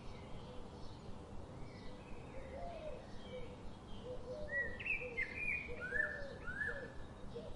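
Forest ambience: several birds chirping and calling over a steady background hiss. A run of short, lower-pitched calls repeats roughly once a second from a few seconds in, and the brightest chirps come past the middle.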